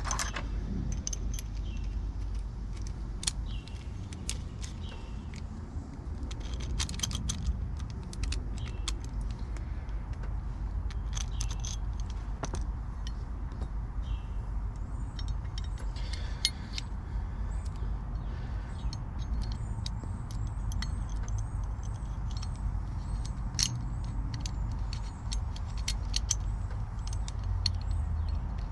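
Small metallic clicks and taps of lock pins, cylinder parts and tools being handled during a lock rekey, scattered irregularly. Under them runs a steady low rumble.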